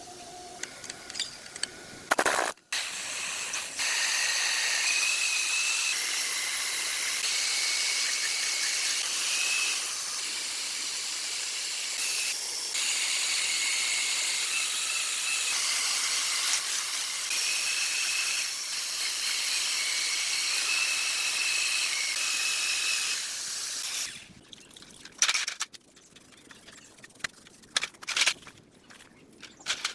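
A long, steady hiss of a spray or air jet with a faint whistle that wavers in pitch. It starts about two seconds in, dips briefly near the middle and stops well before the end, leaving a few light clicks and knocks.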